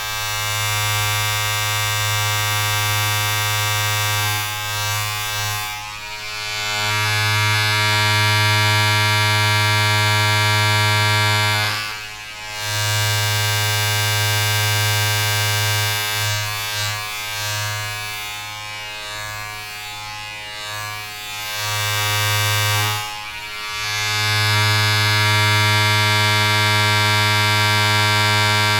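A steady electric buzzing drone with many even overtones that fades and swells several times and briefly drops out twice.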